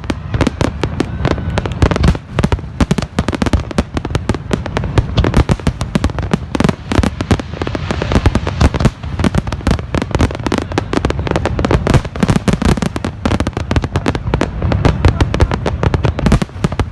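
Fireworks display going off as a dense, unbroken barrage of shell bursts, many loud bangs a second with no let-up.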